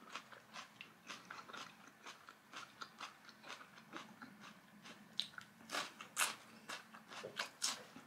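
A person chewing food close to the microphone with the mouth closed: soft, faint, irregular chewing clicks, with a few louder crisp crunches about six to eight seconds in.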